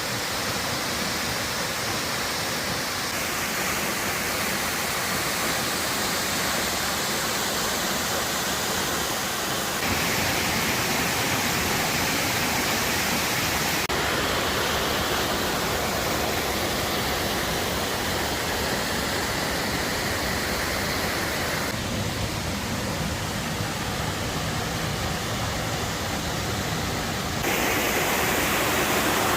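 Waterfall: a steady rush of falling water, its tone changing abruptly several times, about 3, 10, 14, 22 and 27 seconds in.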